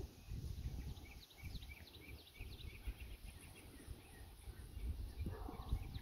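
A small bird singing a run of quick, high chirps over a low, uneven rumble.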